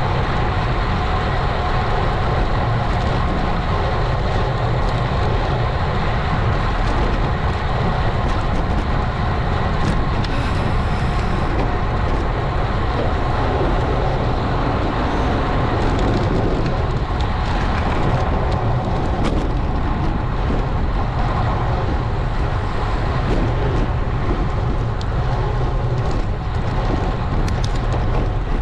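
Steady wind noise buffeting an action camera's microphone on a moving road bike, with the tyres running on the road underneath.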